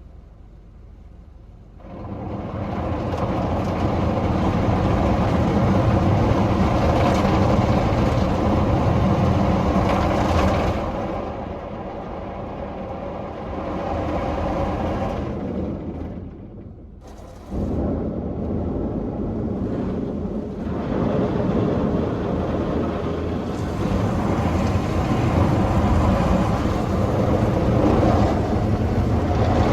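Mark VII ChoiceWash XT soft-touch automatic car wash machine running, with motors, pumps and spraying water. It starts up loudly about two seconds in, drops off briefly about two-thirds of the way through, then starts again.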